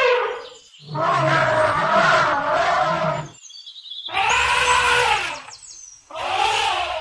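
An animal calling: three loud, pitched calls one after another, the first and longest about two seconds, with a deep grunting undertone.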